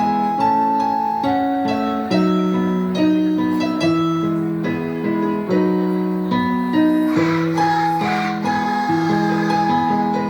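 Keyboard playing a melody over held chords in a steady rhythm, with no singing. A short burst of noise comes in about two-thirds of the way through.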